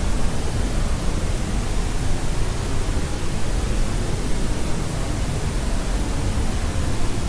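Steady white noise for sleep: an even, unchanging hiss, fuller in the low end.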